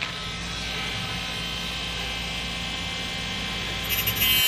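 Handheld corded rotary tool with a thin cut-off disc running at speed, a steady high whine. Near the end the disc bites into a small wooden dowel and the sound gets louder and harsher as it cuts.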